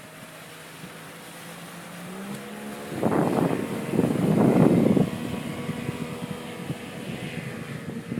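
Motorboat engine speeding up, its pitch rising about two seconds in, then running steadily at the higher speed. Loud rushing bursts of wind or water noise come over it for about two seconds in the middle.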